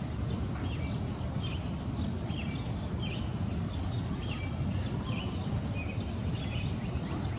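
Small birds giving short chirps, roughly twice a second, over a steady low background rumble.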